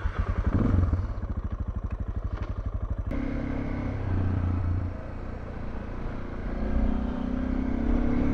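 Motorcycle engine running with a fast, even putter at low revs, then rising in pitch as the bike picks up speed near the end.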